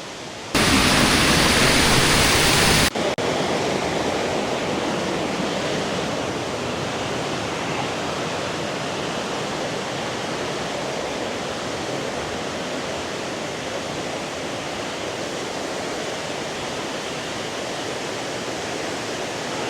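Steady rush of a waterfall. Near the start, a much louder rushing noise lasts about two seconds and then cuts off suddenly.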